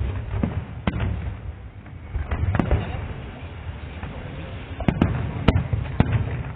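Fireworks display: aerial shells bursting in an irregular series of bangs, with several close together about five seconds in, over a steady low rumble.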